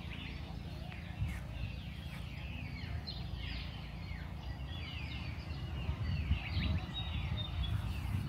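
Many birds chirping and chattering together, a dense run of short downward-sliding calls, over a steady low rumble.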